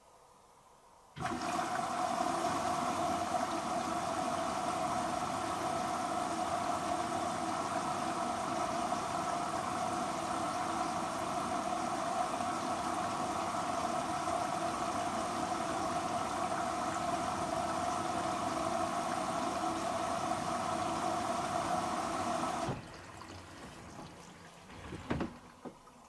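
Hoover H-Wash & Dry 500 washer dryer filling with water at the start of a pre-wash: the inlet valve opens abruptly about a second in, water rushes into the machine at a steady level, and the valve shuts off sharply after about 21 seconds. A couple of faint knocks follow near the end.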